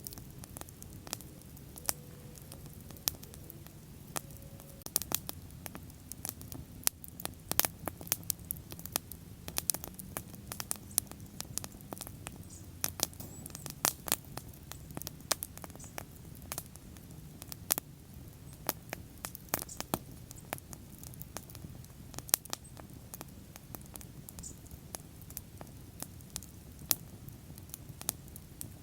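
Wood bonfire burning, with irregular sharp crackles and pops over a steady low rumble of flame.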